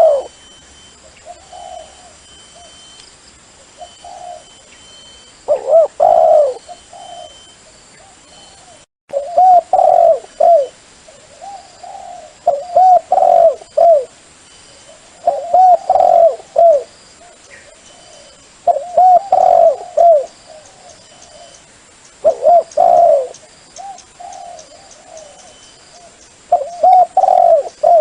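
Dove cooing: short phrases of several low, bent coo notes, repeated every two to three seconds. It is a call recording played to lure doves.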